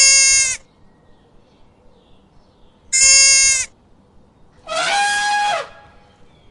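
Three bleats from livestock: two short, high calls with a steady pitch at the start and about three seconds in, then a lower, longer call about five seconds in that falls in pitch at its end.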